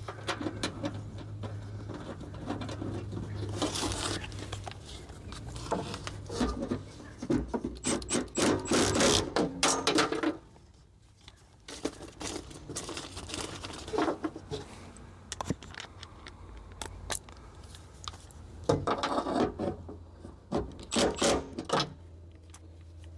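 Hand work on a Pajero door's handle mechanism: an irregular run of clicks, scrapes and rattles as parts are fitted and worked, with louder clusters about a third of the way in and again near the end, over a low steady hum.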